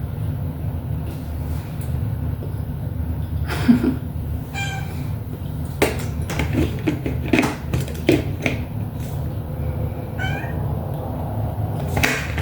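A cat meowing twice, once about four seconds in and again about ten seconds in, over a steady low hum, with a few light knocks in between.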